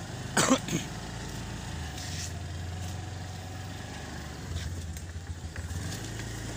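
A motor engine running steadily at low speed, with one brief sharp noise about half a second in.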